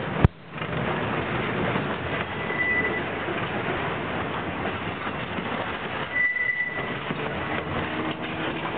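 Freight train rolling past, a steady rumble and rattle of steel wheels on the rails, with a brief high wheel squeal twice. A single sharp knock just after the start.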